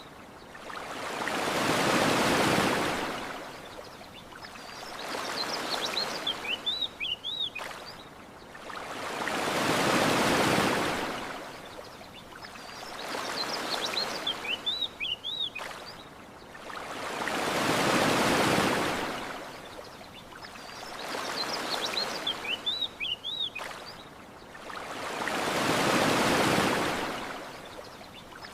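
Gentle ocean waves washing onto a shore, one swell rising and falling about every eight seconds, with small birds chirping briefly in the lulls between them.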